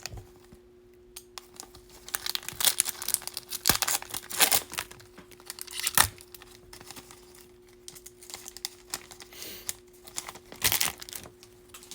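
Bowman baseball card pack wrapper being torn open and crinkled by hand, in irregular bursts of rustling with a few sharp clicks, over a faint steady hum.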